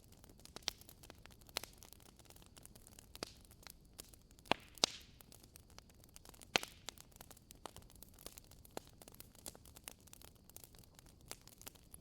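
Wood fire burning in a fireplace: irregular sharp crackles and pops over a faint steady hiss, with a few louder pops near the middle.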